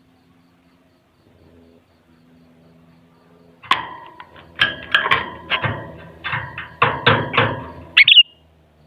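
Sooty-headed bulbul calling: after a faint start, a quick run of short, sharp notes begins about four seconds in and ends with one bright, rising note near the end.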